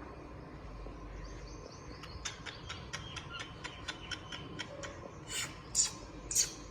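Pet parrot vocalizing: a run of rapid short clicks, about four a second, then three louder harsh calls near the end.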